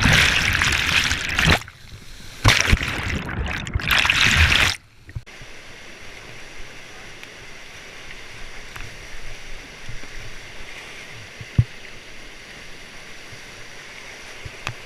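Rushing whitewater, loud and splashing close to the microphone for the first few seconds, then dropping suddenly to a quieter, steady rush of water. A single sharp knock sounds near the end.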